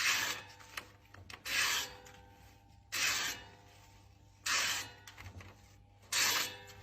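Five rasping scraping strokes, each about half a second long, coming about every second and a half.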